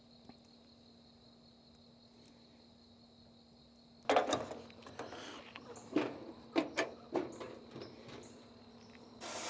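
Steady chirring of crickets and other insects, then from about four seconds in a run of close knocks, clacks and rustles of gear being handled.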